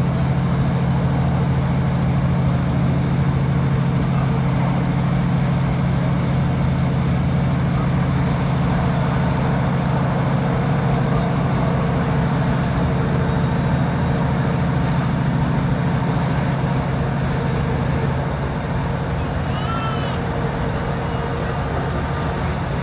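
Inside a Class 156 Sprinter diesel multiple unit running at speed: a steady drone from the underfloor diesel engine mixed with the rush of wheels on rail. The noise eases slightly in the last few seconds, and a brief high-pitched squeak comes near the end.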